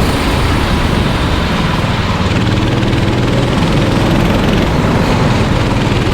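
Go-kart engines running on the track, a steady drone with low engine tones that shift in pitch.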